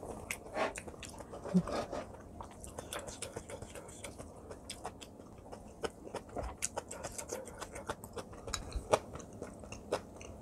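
Close-miked chewing of kimchi fried rice with Spam: many short wet mouth clicks and smacks, with a spoon scraping and knocking against the plate, the loudest knocks about a second and a half in and near the end.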